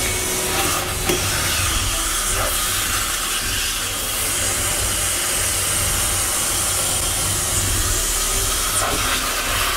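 Henry canister vacuum cleaner running on high power, its hose sucking air at a sink drain: a steady rushing hiss over a low hum, with a few faint ticks.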